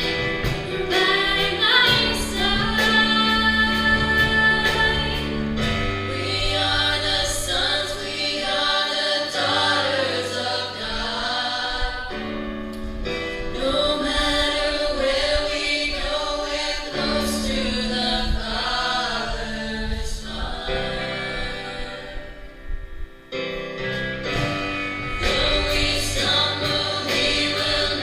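Gospel choir singing over an instrumental accompaniment with a steady bass line, dipping briefly near the end.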